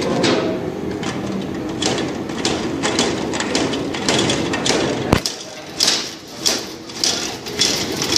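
1966 SHL motorcycle's two-stroke single-cylinder engine running unevenly on its first start in about twenty years, with a sharp stroke about twice a second. About five seconds in there is a sharp click, and the sound then drops and comes in short swells.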